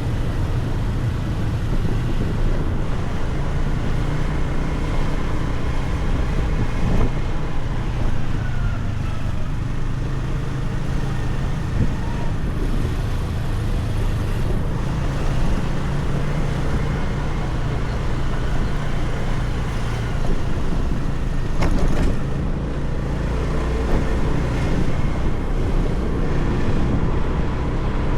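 Motorcycle engine running at steady riding speed, heard from on the bike, with road noise and wind over the microphone.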